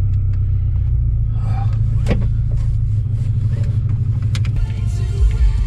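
A car running with a steady low engine and road rumble, with a couple of sharp clicks about two and four seconds in.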